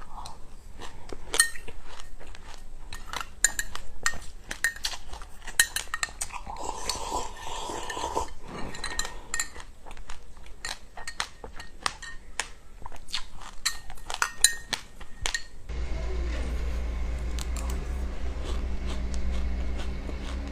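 Cutlery clicking and scraping against a dish in a quick, uneven run of sharp clinks while food is eaten. About three-quarters of the way through, the clinks stop and a steady low hum remains.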